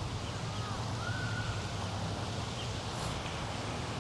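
Outdoor ambience: a steady low hum under a background wash, with a couple of faint bird calls in the first half.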